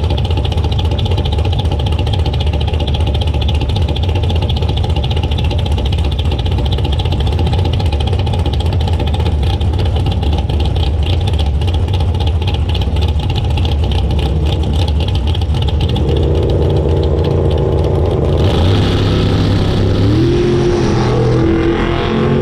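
Drag-racing Camaro engine idling loud and steady. In the last few seconds a second engine sound comes in over it, its pitch stepping up and rising.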